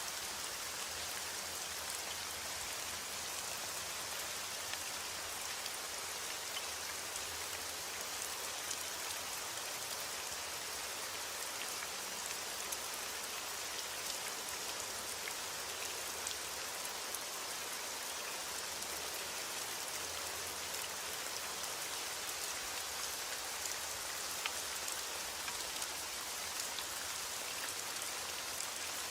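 Steady rain falling, with a dense patter of drops hitting a surface.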